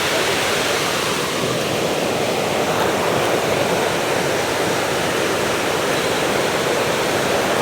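Small waterfall rushing as a steady, even noise of falling water.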